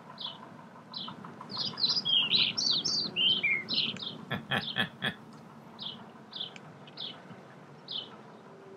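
Songbirds chirping outdoors: short high chirps repeated about twice a second, with a busier run of varied notes in the first half. A few short sharp sounds come a little after four seconds in.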